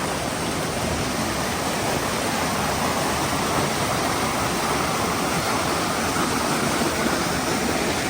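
Rushing water of a rocky mountain stream, a steady, unbroken rush of cascading water.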